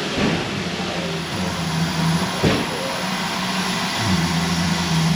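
Railway locomotive running at a station platform: a steady low hum that fades in and out, with one sharp knock about two and a half seconds in.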